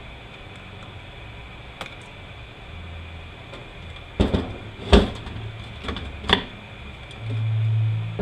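Metal transmission parts knocking together as a clutch drum is worked on, with a few sharp clanks in the middle, the loudest about five seconds in. A low hum runs underneath and swells near the end.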